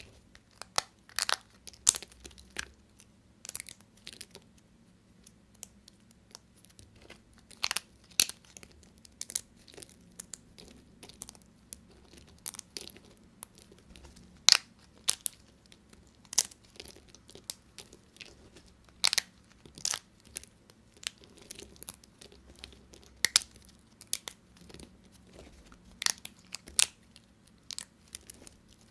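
Knife cutting through bars of soap: crisp crunches and crackles at an irregular pace, often a second or less apart.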